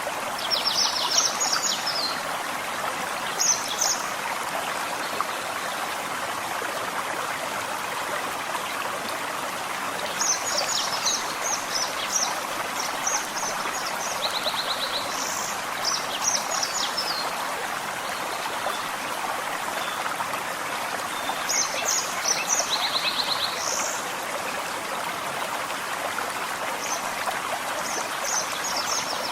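A small forest stream running steadily, with songbirds singing short, high phrases every few seconds, including a quick trill twice.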